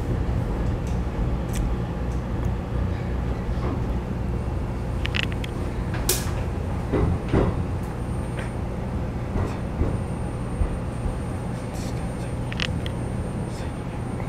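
Interior sound of a Keikyu New 1000 series electric commuter train car: a steady low rumble and hum, with a few sharp clicks and knocks, the loudest about six seconds in.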